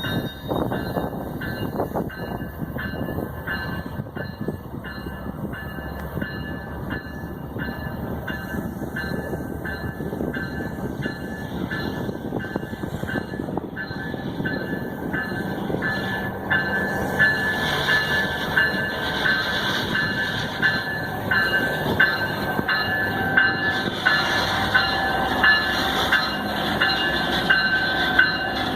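Freight train rolling past, its wagons rumbling and clattering over the rail joints. A thin high whine runs through it, and the rhythmic clacks get louder in the second half.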